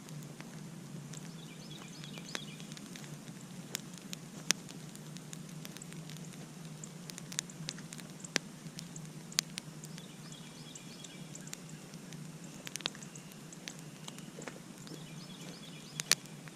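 Campfire crackling, with sharp irregular pops from the burning wood, the loudest about four and a half seconds in and near the end, over a steady low rumble.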